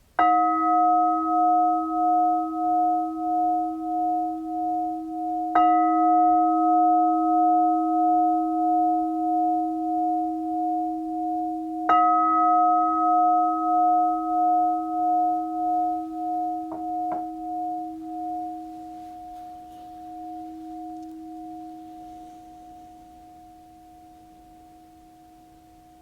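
A bell struck three times, about six seconds apart, each strike ringing on in a long pulsing, wavering tone that slowly dies away.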